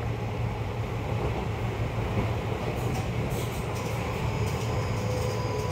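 Seibu 30000 series electric train running at speed, heard from inside the passenger car: a steady low rumble of wheels on rail with a few faint clicks. A faint steady tone comes in near the end.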